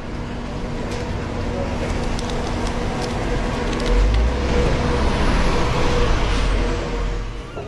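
Road traffic: a motor vehicle running close by with a steady hum, its noise swelling about four seconds in and fading near the end, as a vehicle passing.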